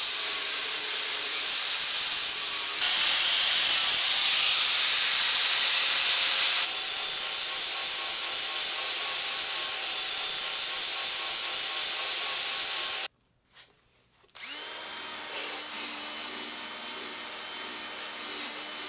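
Power grinder grinding freshly welded spots flush on a steel plate: a loud, steady abrasive hiss that cuts off suddenly about 13 seconds in. After a short silence a quieter, steadier tool sound with a low hum runs until just before the end.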